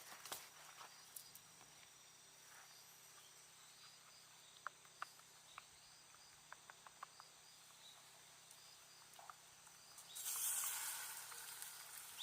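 Faint wood campfire crackling, with a few sharp scattered pops, then a short hiss about ten seconds in that fades away.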